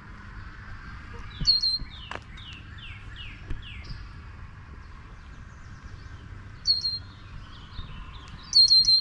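Songbird chirping: loud, bright chirps about a second and a half in, again near seven seconds, and a quick run of four or five notes near the end. Fainter, downward-slurred chirps of other birds run throughout, over a steady background hum.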